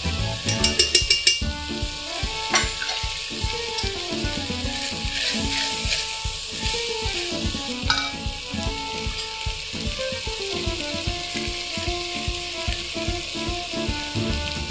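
Chopped vegetables and mince sizzling in an enamelled cast-iron pot while a silicone spatula stirs them. There are a few quick metallic taps near the start and single clicks of the spatula against the pot. Background music with a melody plays throughout.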